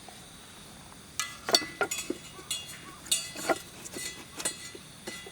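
Thin metal pieces clinking and rattling against each other, a run of sharp clinks each with a brief ring, starting about a second in and dying away near the end.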